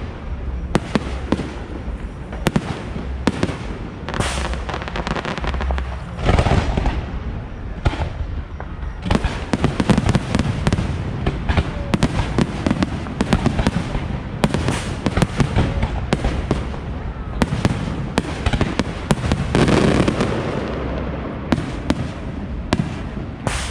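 Aerial fireworks display: bangs and crackling go on without a break, thickening into dense volleys every few seconds.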